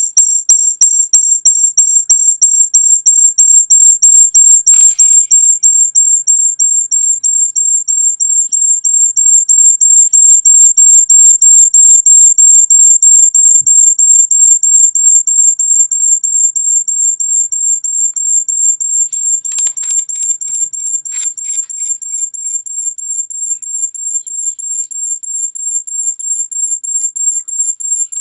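A constant, high-pitched pulsing tone, several short beeps a second, repeating evenly. Its source is unexplained: the recordist can find no electronics nearby.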